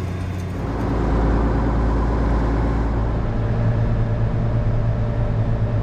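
Vehicle engine running steadily with a low drone, which shifts about half a second in and again around three seconds in.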